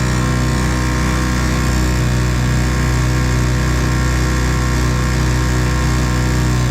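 1958 Evinrude 3 hp two-stroke outboard motor running at a steady speed.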